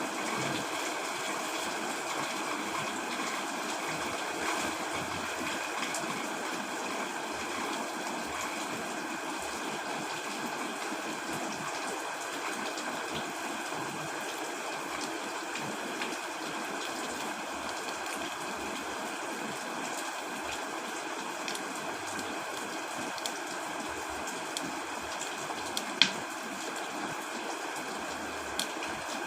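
Steady heavy rain drumming on a tent, an even hiss with scattered sharper drop hits and one louder tap near the end.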